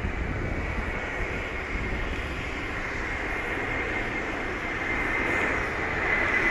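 Airbus A330-300 jet airliner with Pratt & Whitney engines on its landing approach: a steady jet rush with an engine whine that grows louder toward the end as it draws nearer.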